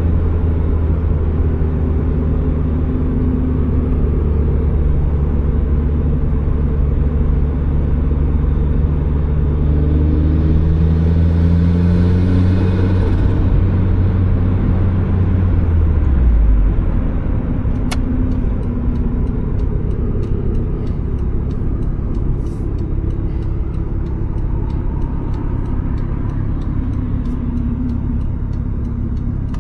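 A turbocharged Mazda Miata's four-cylinder engine running under way, heard from the driver's seat. Its drone climbs slightly in pitch, with a hissing rush for a few seconds, then drops away just past halfway as the car comes off the throttle. After that the engine drones lower under road noise.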